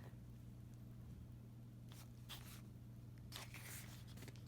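Faint paper rustling as photobook pages are handled and turned, twice, over a steady low electrical hum.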